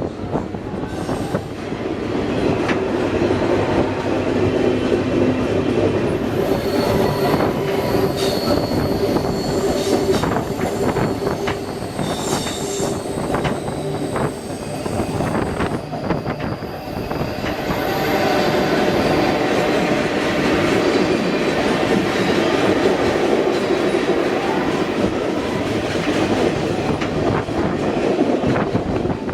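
Canadian Pacific Holiday Train running on the rails, heard from aboard: a steady rumble with wheels clicking over the rail joints, and high-pitched wheel squeal from about six to thirteen seconds in.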